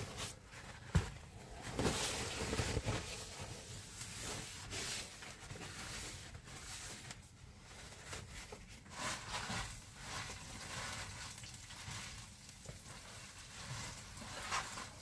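Cleaning up after cooking: soft rustling and wiping, with scattered small knocks and clicks, one sharper knock about a second in.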